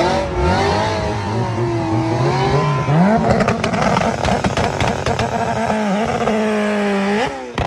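A race car's engine revving at the start line. Its pitch wavers, climbs about three seconds in and then holds steady at high revs, with a string of sharp crackles partway through. It cuts off abruptly with a sharp click near the end.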